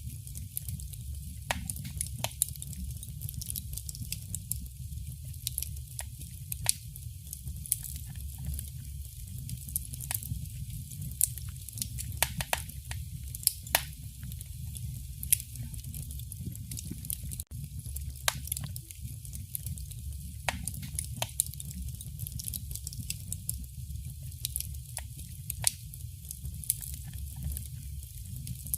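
Wood fire burning in a fireplace, crackling: irregular sharp pops and snaps, a few louder than the rest, over a steady low rumble.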